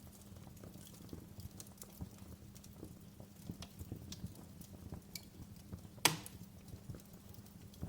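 Wood fire burning in a fireplace: a low steady rumble of flames with scattered small crackles, and one louder pop about six seconds in.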